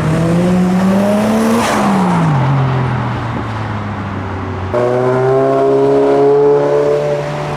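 Car engines driving past. One accelerates, its note rising, then drops sharply as it passes about two seconds in. A second engine comes in suddenly about five seconds in and holds a steady note.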